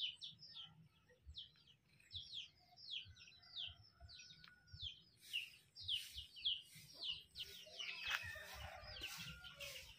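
Birds chirping faintly: a run of short, quickly falling chirps repeated every fraction of a second, more frequent in the second half.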